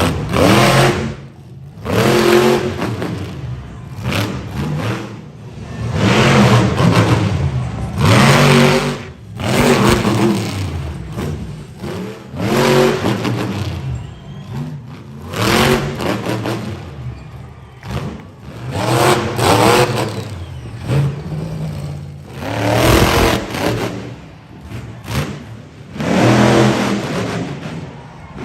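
Monster truck engine revving in repeated hard blasts every two to three seconds, the pitch climbing and dropping with each stab of throttle.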